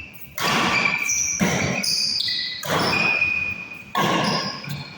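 Badminton rally: rackets striking the shuttlecock four times, about once every 1.3 seconds, each hit echoing in the hall, with shoes squeaking on the court.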